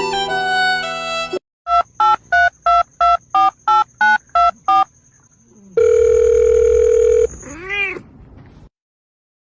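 About ten short identical electronic beeps, roughly three a second, then a steady held tone lasting about a second and a half, followed by a brief call that rises and falls in pitch.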